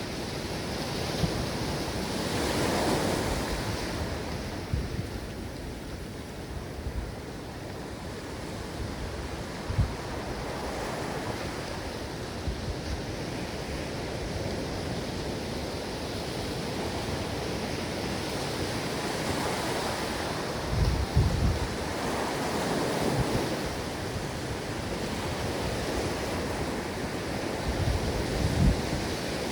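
Ocean waves surging and washing onto a shore as a continuous rush, swelling about three seconds in and again around twenty seconds in. Short gusts of wind buffet the microphone, the strongest near twenty-one and twenty-eight seconds.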